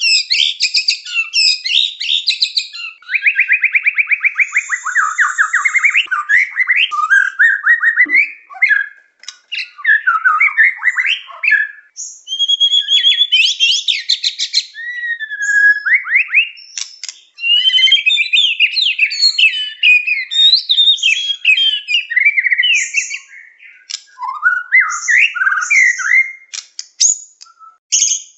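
Murai (a Copsychus songbird) singing without a break, a lure recording for trapping murai: a long run of varied phrases, fast trills, clear whistles and scratchy chatters one after another with only short pauses.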